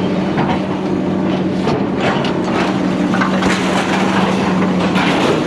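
Scrap metal clattering and crashing as it is dropped and thrown, many irregular clanks one after another, over the steady hum of an engine.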